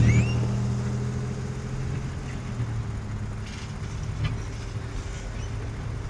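A motor vehicle's engine going by and fading away, its low hum dying down over the first two or three seconds and leaving steady street background.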